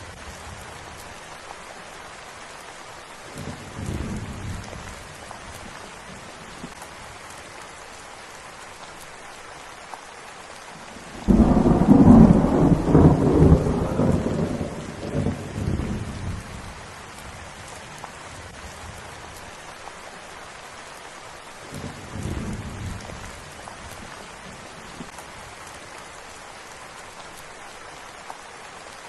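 Steady rain with thunder. A soft roll about four seconds in, a loud clap about eleven seconds in that rumbles away over several seconds, and another soft roll about three-quarters of the way through.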